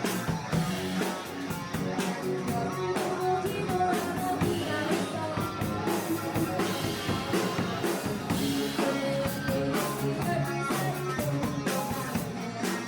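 A rock band playing live: electric guitars and a drum kit with a steady beat, with some singing.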